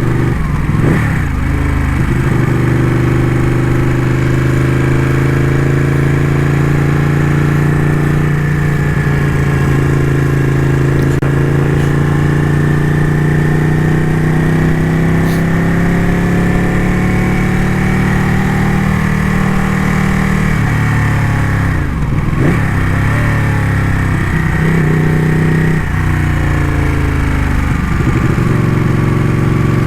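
Ducati motorcycle engine running under way, its note slowly rising and falling, with a few brief dips in pitch that climb back in the last third as the throttle is rolled off and reopened.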